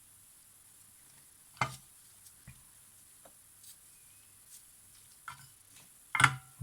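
A few light, sharp clicks and taps of small hand tools against the camera and the bench, spread out with quiet between them, the loudest a double click near the end.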